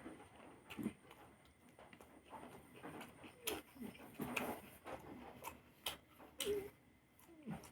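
A person eating: irregular wet mouth clicks and smacks while chewing food, a few of them louder and sharp.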